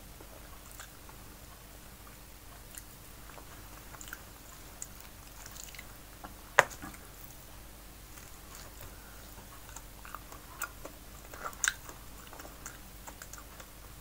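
Close-up chewing of steamed fish and rice, with scattered soft wet mouth clicks; a sharp click about six and a half seconds in is the loudest, and more clicks cluster near eleven seconds.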